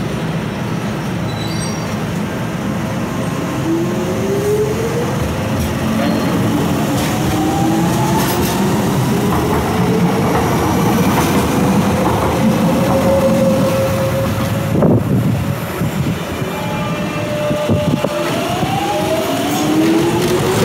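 Docklands Light Railway train pulling out of the station, its traction motors whining and rising in pitch as it accelerates over the rolling noise of its wheels. There is a sharp knock partway through, and more rising whines near the end.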